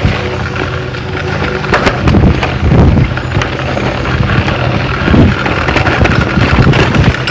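Bicycle rolling over a rough trail of roots and vines, its tyres rumbling, with frequent knocks and rattles from the bumps.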